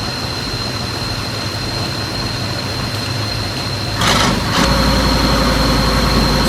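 Heavy vehicle engine running steadily under a thin, steady high whine. About four seconds in there is a short burst of noise, after which a deeper, louder engine hum sets in.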